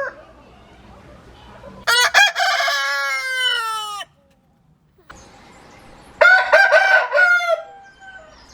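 Roosters crowing, two separate crows in turn, each a cock-a-doodle-doo of about two seconds; the first one's pitch falls off toward its end.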